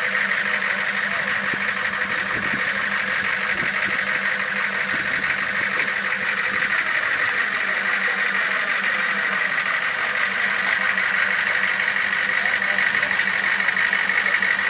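Monster-truck Jeep's Hummer H1 V8 diesel engine running steadily at idle, with an even rapid pulse.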